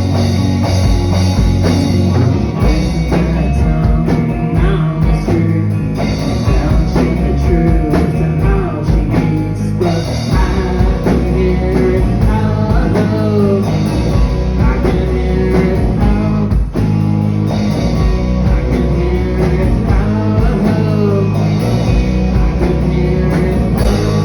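Rock band playing live: drum kit, bass and electric guitar, with a voice singing over them through the middle of the passage.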